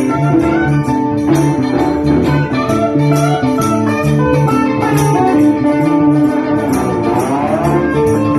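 Live blues band playing an instrumental passage in D: electric lead and rhythm guitars over bass guitar, with regular cymbal strokes on the beat. About seven seconds in, a guitar line glides upward in pitch.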